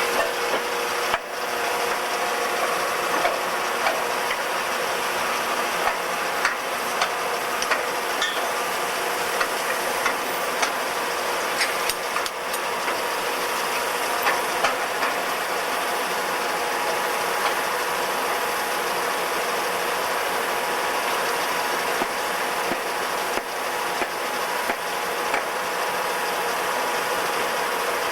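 REED A40HP concrete pump running: a steady engine and hydraulic drone with a short clunk about every second and a quarter, the regular beat of the pumping cycle.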